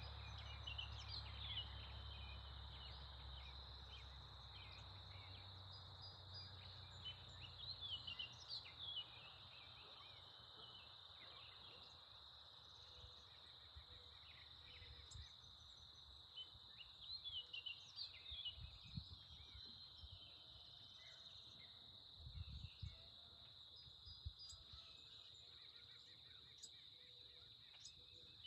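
Faint outdoor birdsong: short chirps and trills scattered throughout, over a steady high-pitched insect buzz. A low rumble in the first few seconds and a few soft low thumps later on.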